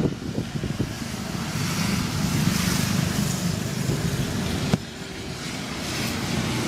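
Honda Vario Techno 110 scooter's small single-cylinder four-stroke engine running with an uneven low pulse. A sharp click comes nearly five seconds in, after which it runs a little quieter.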